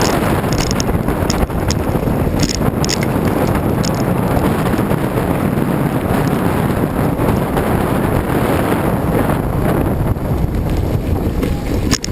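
Heavy wind rushing over the microphone during a fast downhill bicycle descent, a steady loud roar of air with a few light clicks in the first few seconds and one near the end.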